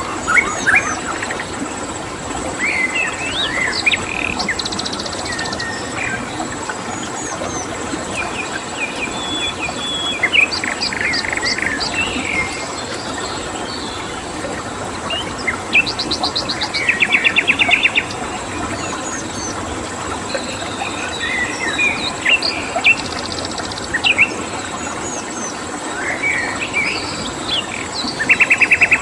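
Several wild songbirds chirping and whistling, with now and then a fast buzzy trill, over a steady rush of running water and a constant high-pitched insect drone.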